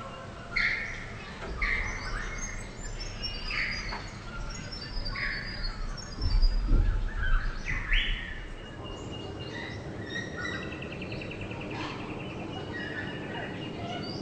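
Several birds calling and chirping, with one call repeating about once a second and a short rapid trill near the end. A low rumble swells up about halfway through.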